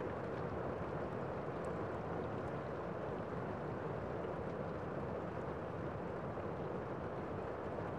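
Gentle rain falling on a window: a steady, soft hiss of rain with a few faint drop ticks.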